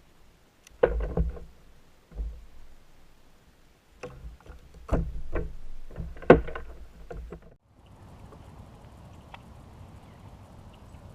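Knocks and thuds on a fishing kayak, as the paddle and gear bump the hull, come in uneven bursts over the first seven or so seconds. The sound then changes abruptly to a steady low hiss.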